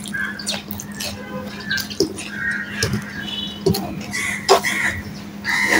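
Close-miked eating by hand: wet chewing and lip-smacking on a mouthful of rice and fried hilsa, with fingers working rice on a steel plate, heard as many short irregular clicks and smacks. A few short high-pitched calls sound behind it.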